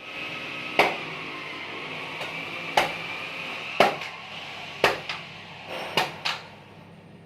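Six sharp knocks, most about a second apart, the last two close together, over a steady high-pitched hum that fades near the end.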